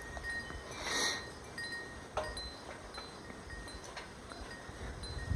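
Wind chimes ringing softly, a few fixed high notes sounding on and off, with a brief hiss about a second in.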